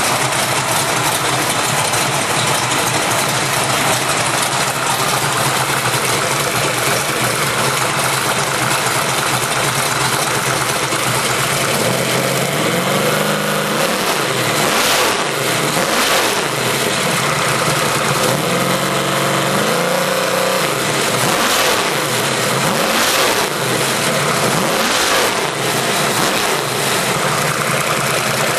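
Freshly built Ford 363 stroker small-block V8 running on a test stand. It is revved up and back down repeatedly in the second half, past about 4,800 rpm on the tachometer.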